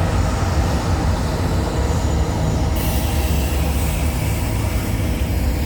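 CN intermodal freight train's cars rolling past, a steady heavy rumble of wheels on rail. A high hiss or squeal from the wheels joins suddenly about halfway through and fades near the end.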